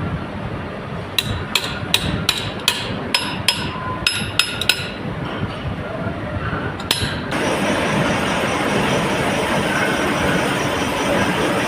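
A hammer tapping on steel: a quick run of about ten sharp, ringing metallic strikes, roughly three a second, with one more strike a couple of seconds later, over a steady low machine hum. About seven seconds in, a louder, steady machine noise takes over.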